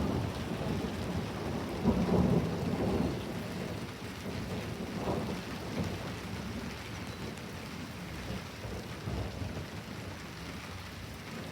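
Rolling thunder over steady heavy rain. The rumble swells about two seconds in and then slowly dies away, leaving the rain.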